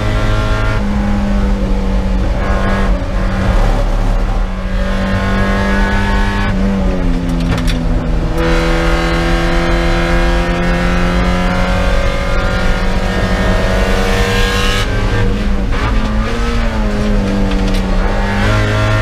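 Spec Miata four-cylinder race engine heard from inside the cockpit, running hard. Its pitch drops sharply about a third of the way in, climbs gradually for several seconds, then falls again twice near the end as the car slows through the corners.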